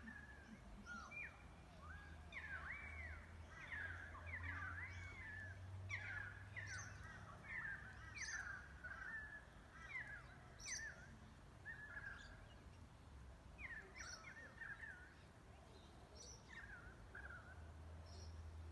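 Wild birds calling outdoors: a steady run of short, bending chirps and warbled notes, with sharp high-pitched calls mixed in, fairly faint over a low background rumble.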